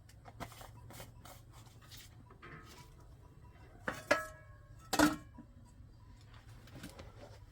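Objects being handled: a string of light knocks and clicks, with two louder clinks about four and five seconds in that ring briefly.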